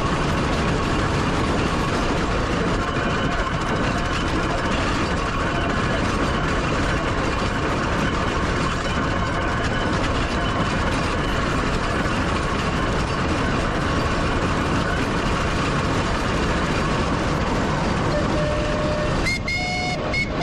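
A steam traction engine on the move along the road makes a steady, dense running noise. Near the end a brief pitched tone sounds.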